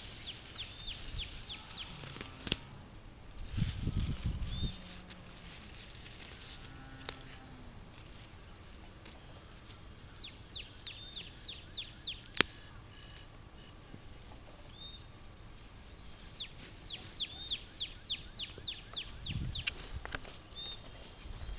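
A songbird singing a rapid series of high, downward-slurred notes, three times over. Brief low rustling comes about four seconds in and again near the end.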